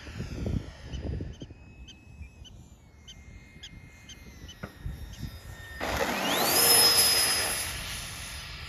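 Radio-controlled model airplane's motor whining quietly at low throttle, then throttling up as the plane passes close by: a sharply rising whine over a loud rush, loudest about seven seconds in, then fading as it goes away.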